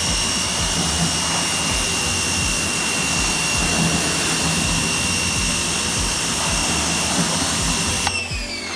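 Electric pressure washer running and spraying: a steady high motor whine over loud spray hiss. About eight seconds in it shuts off and the whine winds down, falling in pitch.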